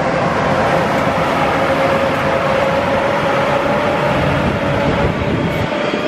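Two Class 18E electric locomotives and their carriages rolling past at close range: a loud, steady rumble of wheels on the rails with a steady whine from the locomotives.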